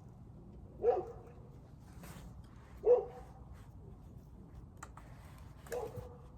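A dog barking: three single barks about two to three seconds apart, the second one the loudest.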